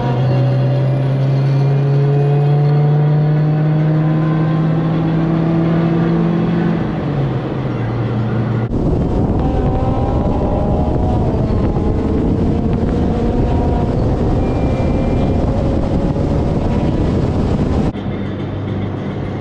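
A vehicle engine pulling under acceleration, its pitch climbing slowly for about seven seconds before dropping back. From about nine seconds in, a loud, even rushing of road and wind noise takes over, then cuts off suddenly near the end.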